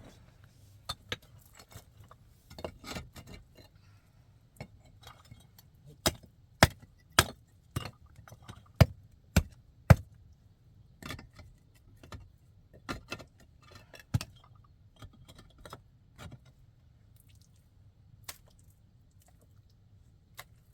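A series of sharp clinks and knocks of hard objects, loudest in a quick run of about eight strokes between six and ten seconds in, then scattered and fainter.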